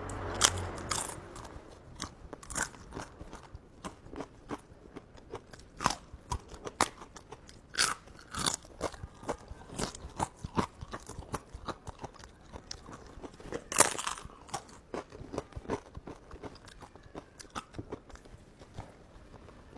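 Close-up chewing and biting of food, with irregular wet smacks and crunchy clicks, the loudest crunches about 8 and 14 seconds in.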